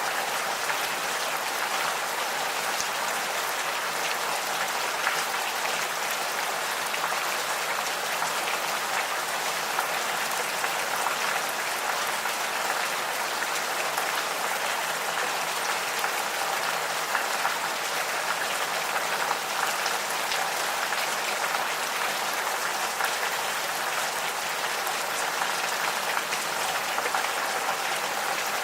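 Gentle, steady rain falling, a dense patter of individual drops hitting surfaces.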